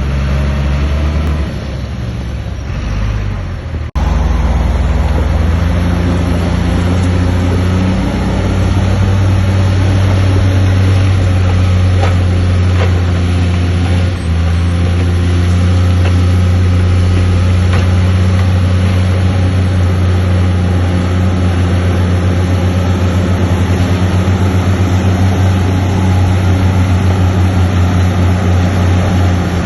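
Heavy diesel engine of earthmoving machinery running steadily under load, a loud low drone. It drops out sharply about four seconds in, then runs on louder.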